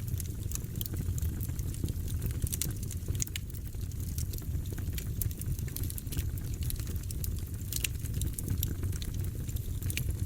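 Wood fire burning in a fireplace: a steady low rumble with irregular sharp crackles and pops from the logs.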